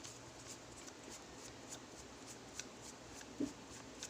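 Faint scattered clicks and light handling of a nebulizer compressor's plastic and metal parts as it is being taken apart, with a soft knock about three and a half seconds in.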